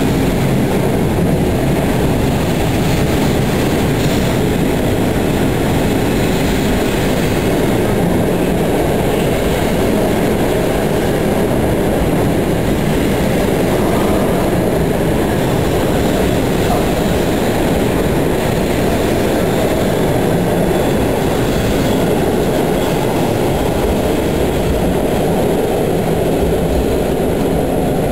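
Passenger coaches of a departing train rolling past along the platform track, a steady loud noise of wheels on rail. The sound is in an underground station hall.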